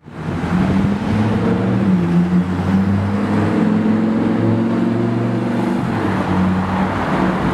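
A car engine running at low revs, a steady deep note that shifts slightly in pitch a couple of times.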